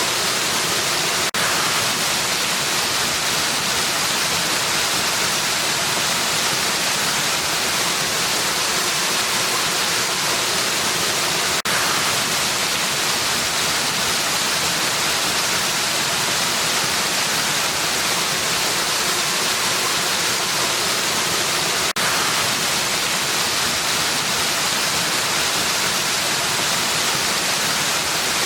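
Waterfall rushing in a steady, even hiss that is heavier in the high range than the low. The hiss dips for an instant three times, about ten seconds apart.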